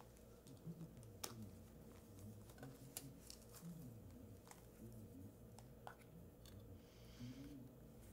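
Near silence: faint room hum with scattered small clicks and rustles from a small object being handled in the hands. The sharpest clicks come about a second and three seconds in.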